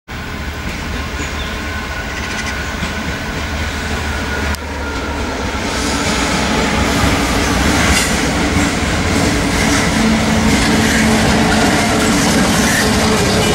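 Class 66 diesel-electric locomotive, with its two-stroke EMD V12 engine, approaching and passing close at the head of a container freight train, growing steadily louder. Its wheels clatter over the rails as it comes alongside.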